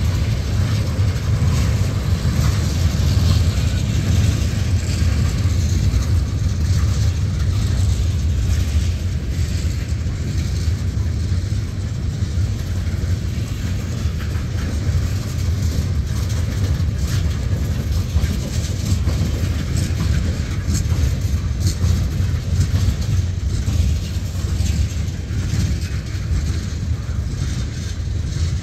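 Freight cars of a mixed manifest train, tank cars then boxcars, rolling past close by on street-running track: a steady low rumble of steel wheels on rail, with scattered sharp clicks and clanks from the wheels and couplers.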